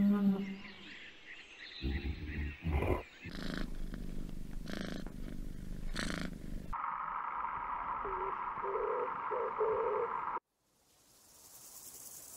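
A cow's moo trails off, then a domestic cat purrs for several seconds. A steady hissing buzz follows and cuts off suddenly, with a faint hiss near the end.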